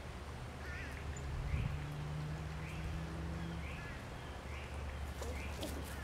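Short bird calls repeating about once a second, with a low steady hum underneath.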